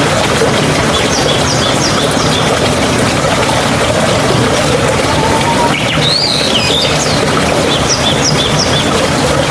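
Steady rush of running water, with small birds singing over it: two runs of short repeated high chirps and a rising-and-falling whistled phrase about six seconds in.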